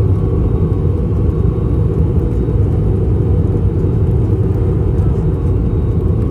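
Steady low rumble of an Airbus A321's cabin in flight during descent: airflow and engine noise heard from inside the cabin.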